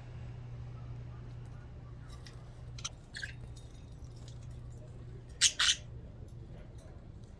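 Pet budgerigars chirping: a few short, high calls, with two loud squawks in quick succession about five and a half seconds in, over a steady low hum.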